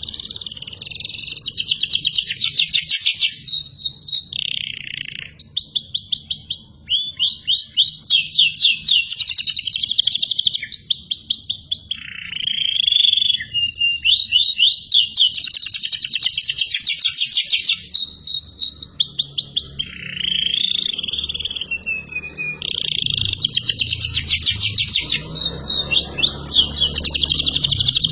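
Domestic canary singing vigorously in long phrases of rapid, rolling trills, each several seconds long, with brief pauses and a few lower sliding notes in between.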